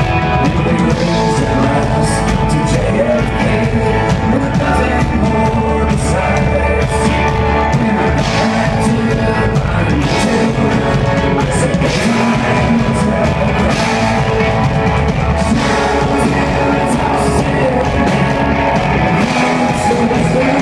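Live band playing an instrumental passage of an Americana rock song, with guitars and a drum kit keeping a steady beat.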